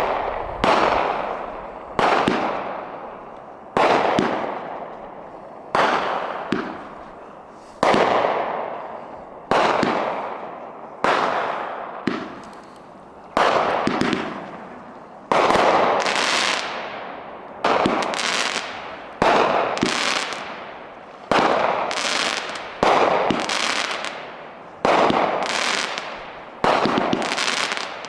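Consumer fireworks going off in a long series: a sharp bang every one to two seconds, each fading away over about a second.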